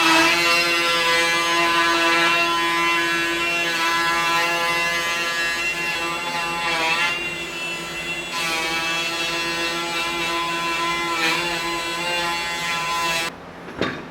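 Electric power-tool motor running with a steady whine, its pitch sagging briefly twice as work is pressed against it, then cutting off suddenly near the end.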